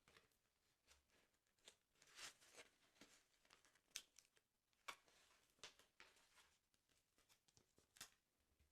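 Faint handling of a paper sticker album: soft scattered rustles and crinkles of paper and stickers, with a few sharper ticks about four, five and eight seconds in.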